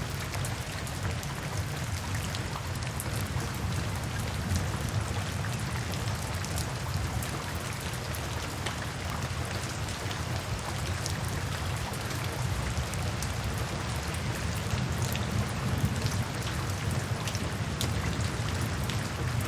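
Steady heavy rain: a dense, even patter with a deep rumble underneath and many scattered sharp ticks of drops.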